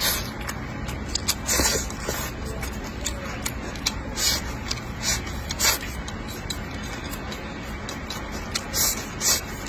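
Close-miked chewing and lip-smacking of someone eating rice and greens with chopsticks: short wet smacks and clicks at irregular intervals.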